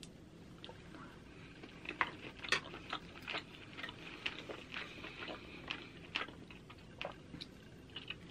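Close-miked chewing of a pork chop: soft, irregular wet mouth clicks and smacks, a few a second, mixed with light clinks of a knife and fork working on a wooden cutting board.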